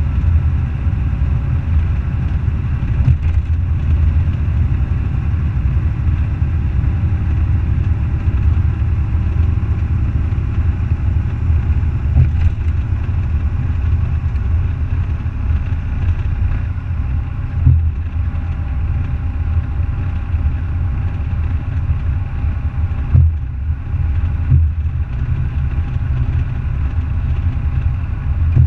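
Semi truck's diesel engine running steadily with a low rumble, with a few short knocks and rattles.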